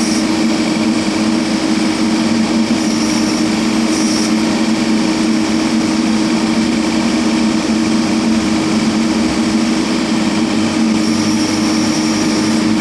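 JCB backhoe loader's diesel engine running at a steady speed, a constant even drone.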